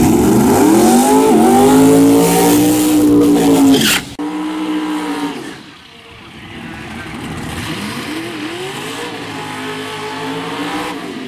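Drag-racing Camaros running at full throttle, engine pitch climbing, dropping back at a gear change and climbing again. About four seconds in the loud run cuts off abruptly, and fainter engine sound then rises again with another shift.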